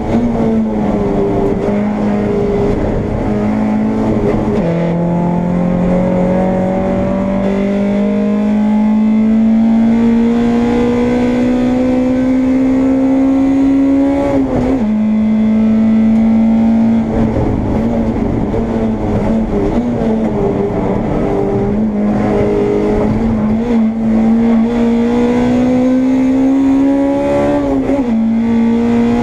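Honda Integra race car's four-cylinder engine heard from inside the car under hard acceleration. Its pitch climbs steadily in long pulls. It drops sharply at upshifts about five seconds in, about fifteen seconds in and near the end. A lighter, near-steady stretch comes in the middle.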